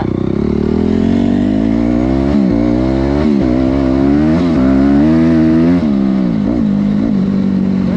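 Honda CRF250R's single-cylinder four-stroke engine running loud, its pitch rising and falling repeatedly with the throttle through the middle seconds before settling to a steadier note near the end.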